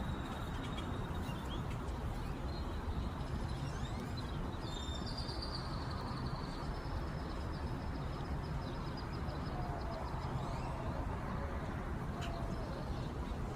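Faint, high chirps from birds, mostly in the middle stretch, over a steady low background rumble.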